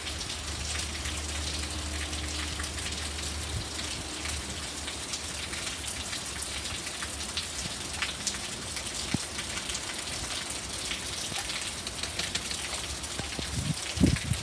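Hard rain falling steadily, a dense patter of raindrops hitting the ground and nearby surfaces. A low hum sits under it for the first few seconds, and a short low thump comes just before the end.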